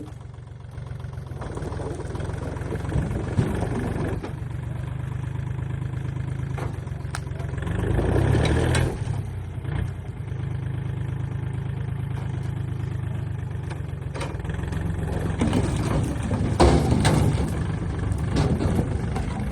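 A machine's motor or engine running steadily with a low hum, growing louder about eight seconds in and again for a few seconds near the end.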